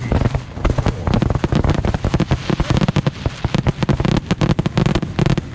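Fireworks going off in a rapid, dense barrage: many sharp bangs and crackles a second, overlapping with no pause.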